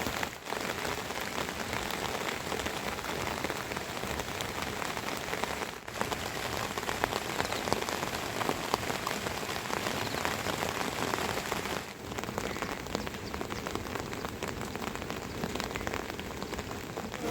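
Steady rain falling, a dense patter of drops, briefly dipping about every six seconds.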